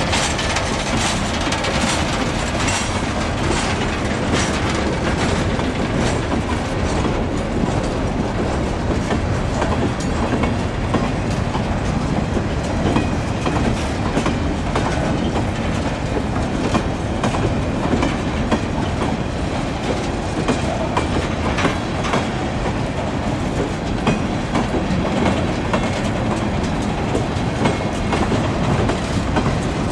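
Freight train of mineral hopper cars rolling past close by, a continuous rumble with the repeated clickety-clack of the wagons' wheels over the rail joints.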